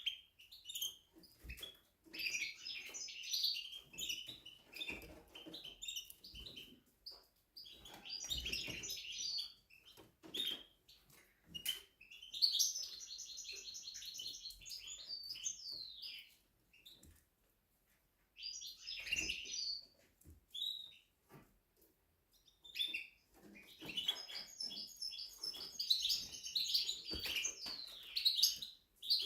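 Spanish Timbrado canary singing in a series of song phrases separated by short pauses, with a fast, even trill about halfway through.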